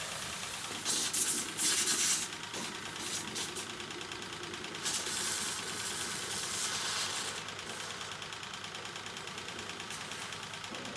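A small engine running steadily with a fine rapid pulse. A loud hiss of water spray cuts in about a second in and again from about five seconds to seven.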